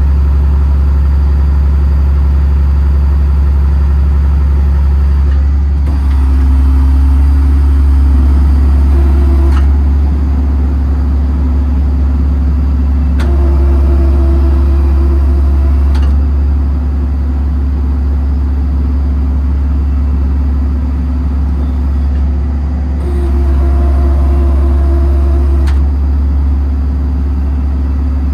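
Paccar PX-6 6.7 diesel idling with its PTO-driven hydraulic pump engaged. Three times, for about three seconds each, a higher steady whine joins the engine as the hydraulic system loads up to work the outriggers, with a click as each spell ends.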